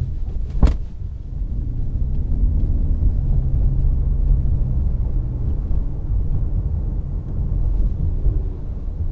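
Toyota C-HR 1.8 Hybrid driving, a steady low rumble of road and running noise heard from inside the car. There is one sharp click or knock just under a second in.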